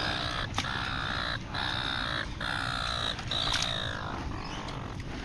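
A bird calling: a run of about five drawn-out calls in quick succession, with a few sharp clicks among them.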